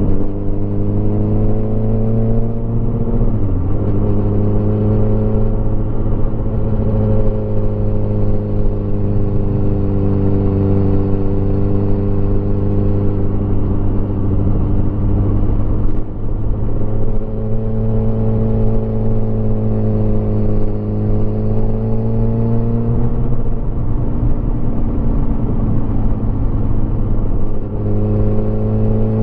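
Motorcycle engine running under way, its pitch holding steady for long stretches, then briefly dipping and climbing again at gear changes about 3 s, 16 s and 28 s in, and falling off once in between.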